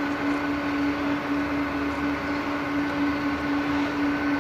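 Jet airliner engines running steadily, an even hum with a constant low tone.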